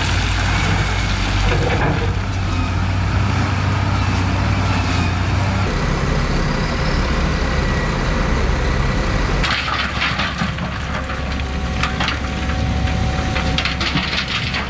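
Heavy diesel machinery running under load, a low steady drone that shifts pitch about six seconds in. In the last few seconds it is joined by a series of sharp cracks and knocks.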